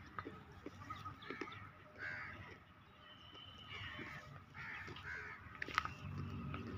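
Birds calling in the background: several short, harsh caws. A sharp click comes near the end.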